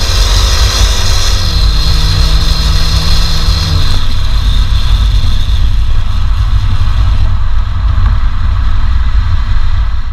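BMW 120i's 2.0-litre naturally aspirated engine running while the car is driven, under a heavy, steady low rumble. The engine note drops in pitch in two steps, about a second in and again near four seconds.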